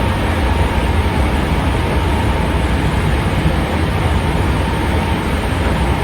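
Hankyu 5300 series electric train running, heard from inside the car: a steady rumble of wheels on the rails. A faint high tone fades out about five seconds in.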